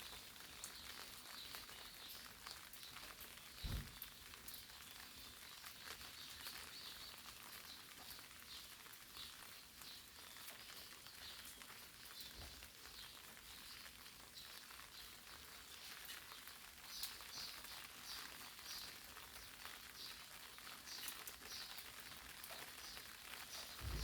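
Light rain pattering on eggplant leaves: a faint, steady hiss of fine drop ticks, with a few heavier drops landing with a short low thud.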